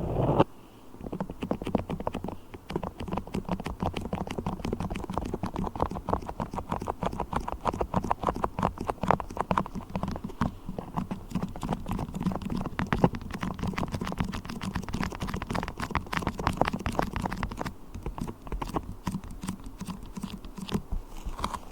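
Beeswax being tapped and worked with the fingers, a dense run of quick small clicks and crackles.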